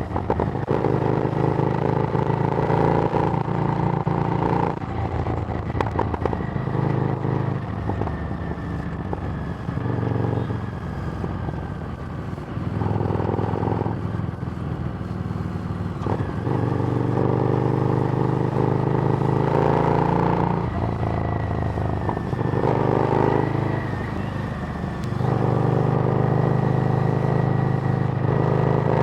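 Harley-Davidson Street Rod's 750 cc V-twin running through a Screamin' Eagle exhaust while riding. The engine note pulls steadily, then drops back and picks up again several times as the rider shifts gears and rolls on and off the throttle.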